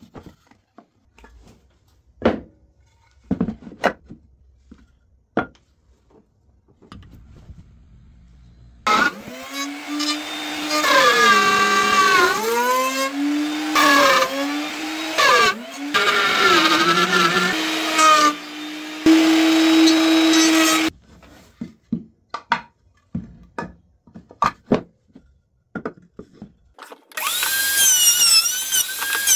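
Scattered knocks and taps of wood being handled, then an electric power tool runs for about twelve seconds, its motor pitch dipping and recovering again and again as it bites into the wood. After more knocks, the tool starts up again near the end at a higher pitch.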